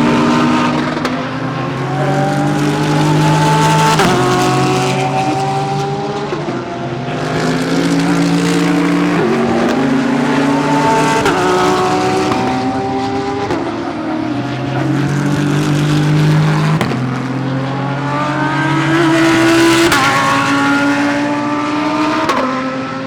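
GT3 race car engines under hard acceleration, each rising in pitch and dropping sharply at every upshift, about every two seconds, one gear after another.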